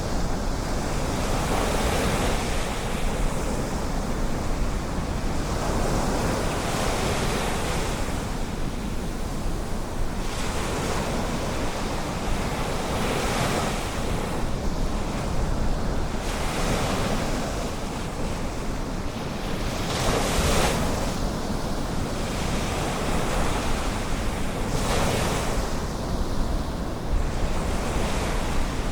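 Ocean surf breaking on a beach, a wave washing in every few seconds over a steady hiss, with wind rumbling on the microphone.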